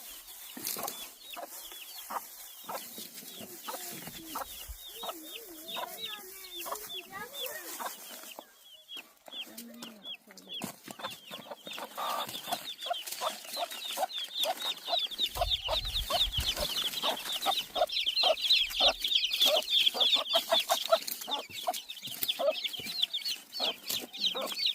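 A flock of chickens clucking, with many quick overlapping calls that grow louder and busier over the second half.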